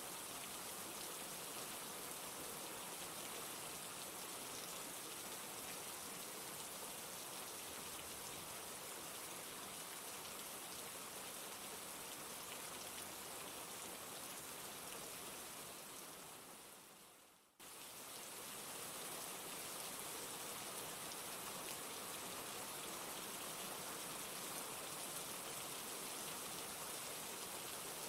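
Steady rain falling, an even hiss of drops. About two-thirds of the way through it fades away over a couple of seconds, then comes back suddenly at full strength.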